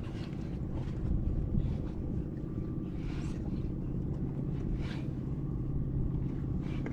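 A motor running with a steady, even-pitched low hum, with a few brief noisy sounds about one, three and five seconds in.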